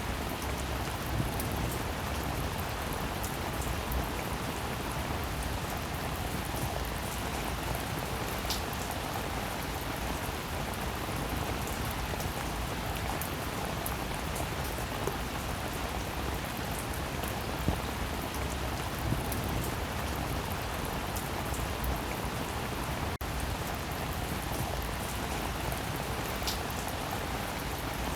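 Rain falling steadily, a constant hiss sprinkled with the small sharp ticks of individual drops striking a surface. The sound breaks off for an instant about two-thirds of the way through.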